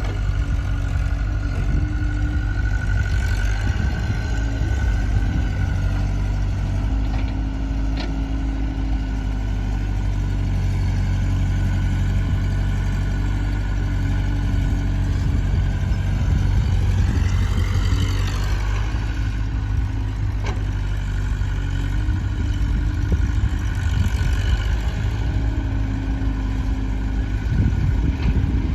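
Diesel engines of farm tractors and a backhoe loader running steadily at a low rumble. A little past the middle comes a whine that rises and then falls.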